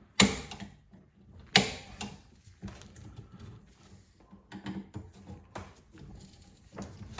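Objects being handled in a small room: two sharp knocks, the first just after the start and the second about a second and a half in, followed by lighter clattering and knocks.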